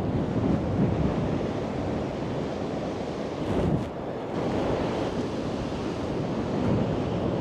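Sea waves washing onto the beach in a steady rush, with wind buffeting the microphone in gusts.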